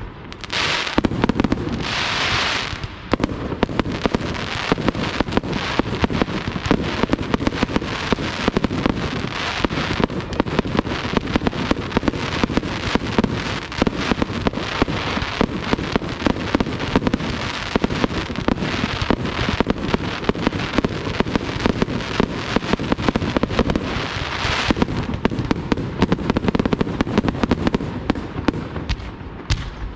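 Fireworks display: a dense, continuous barrage of bangs and crackling reports. A hissing rush comes in the first few seconds and again about 25 seconds in, and the barrage thins just before the end.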